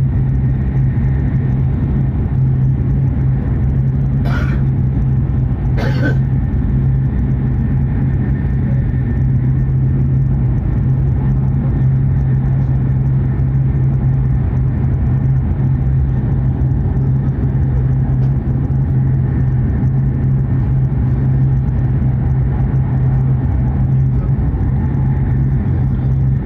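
Hokuriku Shinkansen train running at speed, a steady rumble with a constant low hum, heard from inside the passenger cabin. Two brief clicks about four and six seconds in.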